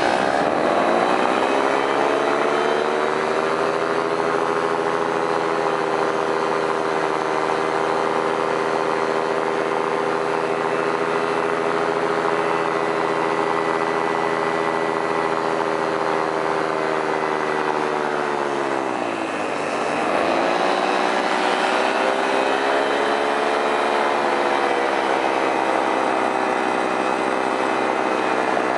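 Flat Top paramotor's engine and propeller running in flight at steady throttle. The pitch settles lower just after the start, then drops sharply as the throttle is eased off about two-thirds of the way through and comes back up a second later.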